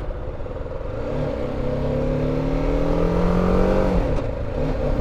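BMW G310GS single-cylinder motorcycle engine pulling under acceleration, its pitch rising steadily, then dropping about four seconds in as the rider shifts up a gear. Wind noise on the helmet or bike microphone runs underneath.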